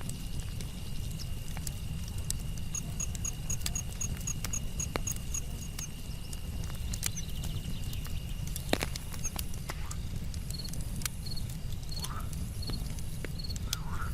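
Campfire crackling with scattered sharp pops, the loudest about nine seconds in, over a low steady rumble. Crickets and other night insects chirp over it: a steady high trill that stops after about eight seconds, and runs of short quick chirps.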